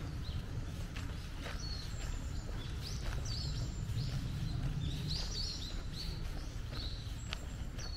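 Birds chirping in woodland: repeated short, high chirps, several overlapping around the middle, over a steady low rumble.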